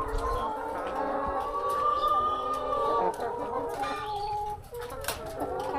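A flock of laying hens clucking and calling over one another, with one long drawn-out call about two seconds in.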